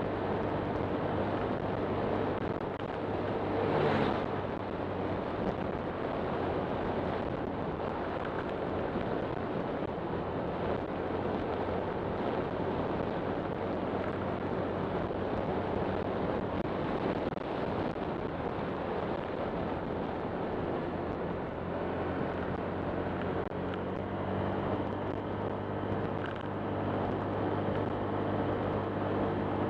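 Honda Click 125 scooter's single-cylinder engine running steadily while riding, with road and wind noise on the microphone. A brief surge of louder noise comes about four seconds in.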